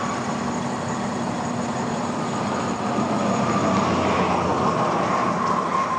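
Heavy diesel machinery running steadily, with a high whine that wavers slightly in pitch over a low hum.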